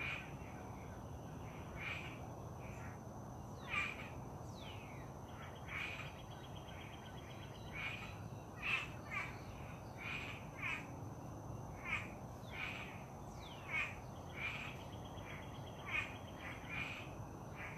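Wild birds calling: short calls, each sweeping downward in pitch, repeat about once a second. A fast trill runs twice, once early and once in the second half, over a steady high thin tone and faint background noise.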